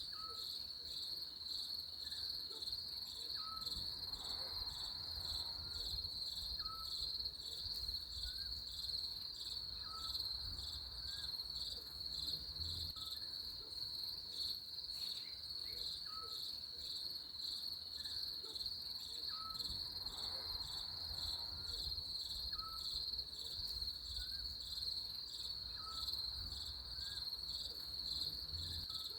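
Crickets chirping in a steady, high-pitched pulsing trill, with a short lower note repeating about every second and a half.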